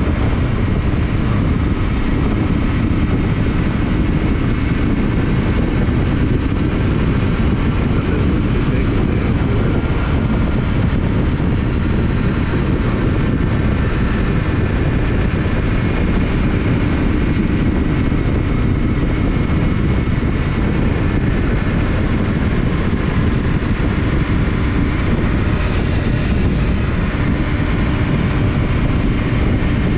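Yamaha Ténéré 700's parallel-twin engine running steadily at cruising speed, mixed with wind and road noise, with no big changes in revs.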